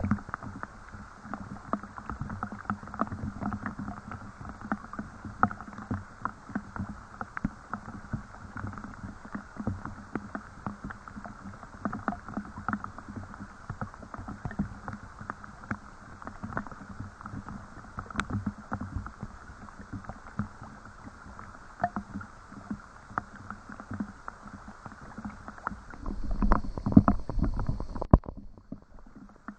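Steady rain, a dense stream of quick drop sounds. Near the end it swells louder with a low rumble for a couple of seconds, then cuts abruptly to a quieter rain sound.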